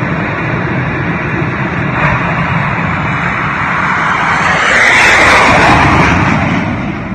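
Jet engine running with a loud, steady rushing noise that swells to its loudest about five seconds in, then falls back near the end.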